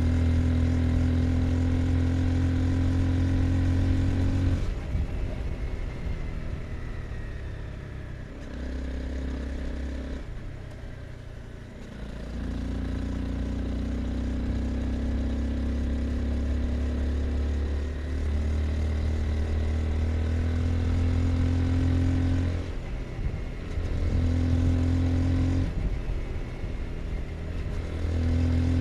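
Honda CBR 250R's single-cylinder engine running under way, picked up from the rider's pockets. About five seconds in the throttle closes and the engine note falls away for several seconds. It picks up again and pulls steadily, with a few brief dips later on like gear changes.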